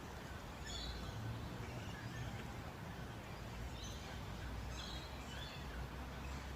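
Birds chirping, with short calls a few times, over a low steady rumble.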